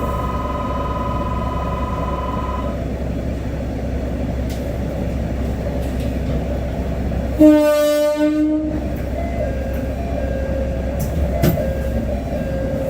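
Diesel railcar's engine running low underneath, with one horn blast of about a second around the middle, the loudest sound. A steady two-note electronic tone sounds at the start and stops about three seconds in.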